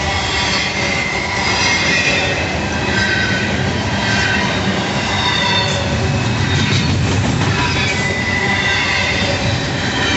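BNSF intermodal freight train rolling past, the cars rumbling steadily on the rails with wavering high-pitched wheel squeal and a few sharp clacks about six to seven seconds in.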